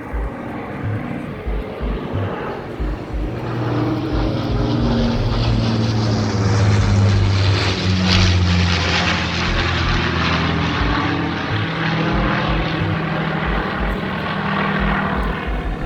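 A steady engine drone passing by, growing louder to a peak about halfway through and then easing off a little.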